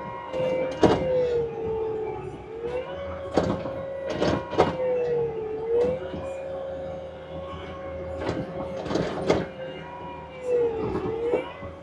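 Compact diesel machine working hard: a steady engine and hydraulic whine that sags in pitch under load and recovers, about three times, with sharp metal clanks and knocks from the bucket or tracks.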